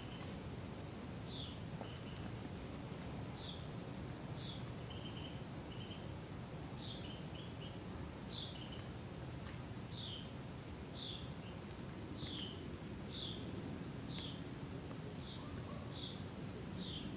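A small bird calling over and over: short falling chirps, roughly one a second, with a few brief buzzy notes among them, over a steady low background hiss.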